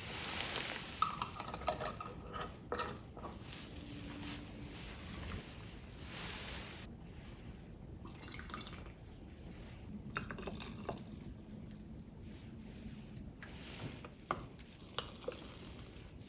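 Kitchen sounds: water running for the first several seconds and then stopping, followed by scattered clinks and knocks of dishes and utensils.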